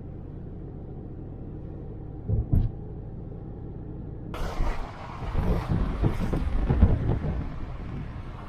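Steady low rumble with two short thumps about two and a half seconds in. About four seconds in it changes abruptly to a louder, fuller rumble and noise with repeated thumps.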